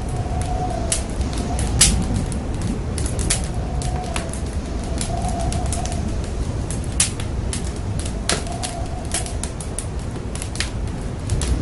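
Wood fire crackling in a fireplace: irregular sharp pops and snaps over a steady low rumble of burning. Brief faint hums come and go now and then.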